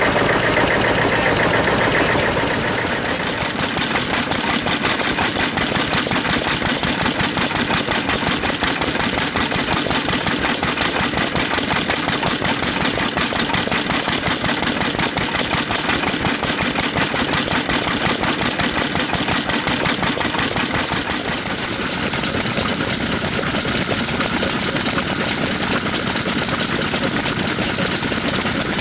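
Vintage Japanese stationary farm engines (hatsudōki) running with a steady, rapid firing beat. The sound dips briefly and shifts in tone about three-quarters of the way through.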